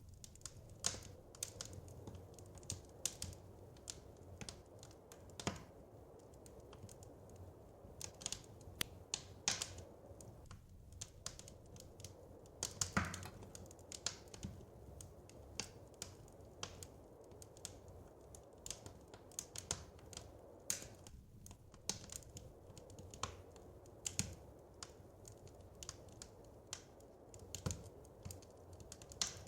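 Wood fire crackling in a fireplace: irregular sharp pops and snaps, some louder than others, over a faint low steady hiss.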